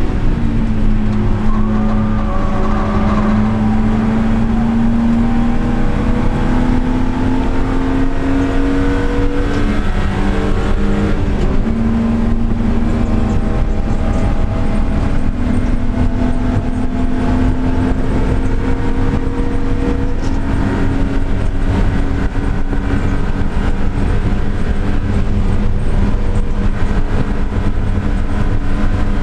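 Car engine and exhaust running hard at speed, the pitch climbing slowly through long pulls. There is a break and a drop in pitch about ten seconds in, like a gear change, before it climbs again.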